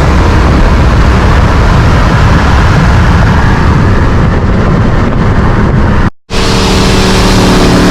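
Supercharged V8 engine at full throttle during a street race, loud and dense. After a brief cut about six seconds in, the engine note is clearer, with a steady pitch that sags slightly.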